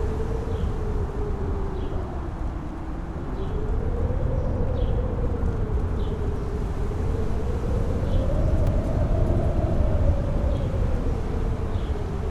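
Mountain-top wind howling, its pitch slowly rising and falling, over a steady low rumble.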